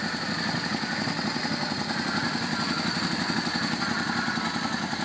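2003 Yamaha V-Star Classic's air-cooled V-twin engine idling steadily and evenly, a smooth idle on a bike in good mechanical condition.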